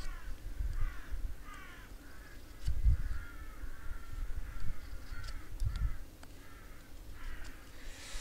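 A bird calling over and over in short repeated calls, with a few faint clicks and a couple of low thumps underneath.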